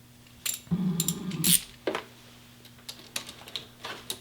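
Scattered light clicks and taps of metal hand tools, a socket wrench and extension being set to the gearbox drain plug, with a short rustle about a second in.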